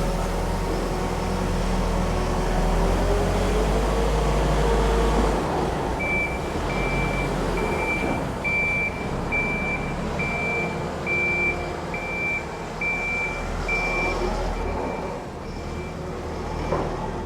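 A farm vehicle's engine running, its revs rising over the first few seconds. Then its reversing alarm beeps at about two beeps a second for around ten seconds while the engine keeps running.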